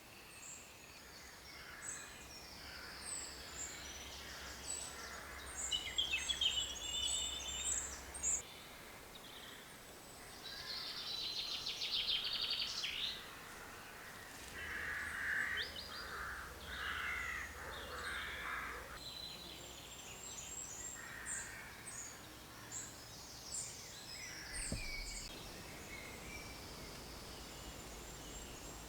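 Woodland birds calling and singing, many short chirps and trills overlapping, over a faint steady background hiss.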